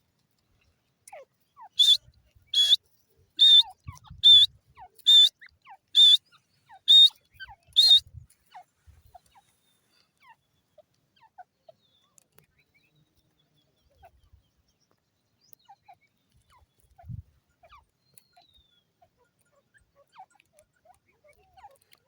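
Teetar (francolin) calling: a series of eight loud, shrill, high notes about one every 0.8 seconds, then a pause with only faint scattered sounds.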